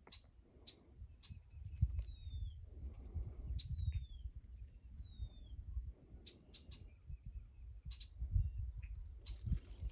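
A songbird whistling three clear notes that slide down in pitch, about a second and a half apart, with scattered short high chips from birds, over an uneven low rumble.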